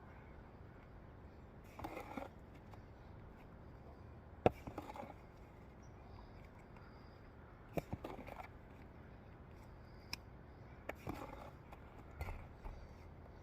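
Bricklaying with a mason's trowel: a few sharp taps and short scrapes of steel on brick and mortar, a few seconds apart, over a faint low background.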